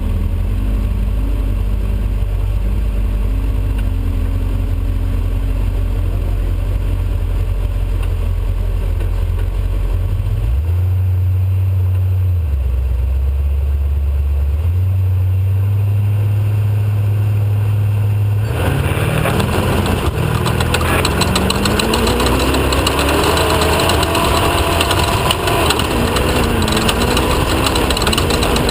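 Off-road race car's engine running with a low, steady drone that steps up and down in pitch. About two-thirds of the way through it suddenly gets louder and fuller, the engine note rising and falling as it accelerates.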